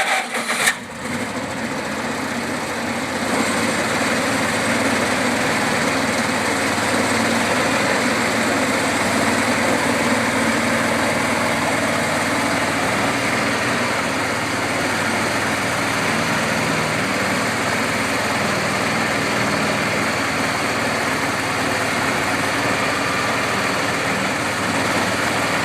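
Mustang 440 skid steer's engine starting up: a short, uneven burst as it catches in the first second, then running steadily, a little louder from about three seconds in.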